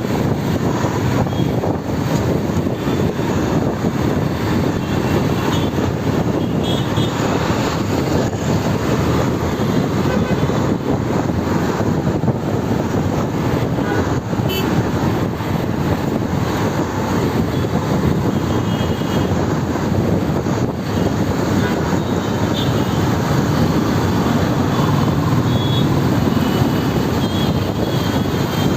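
Steady drone of a moving motorcycle: engine and road noise as it is ridden through traffic, with faint short high tones here and there.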